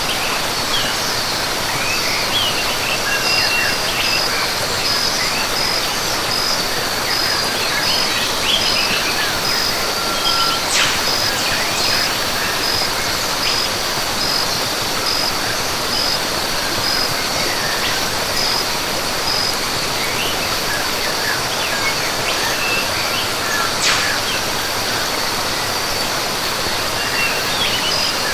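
Rainforest ambience: a steady wash of falling water with birds chirping here and there, and an insect's high pulsed call repeating about twice a second.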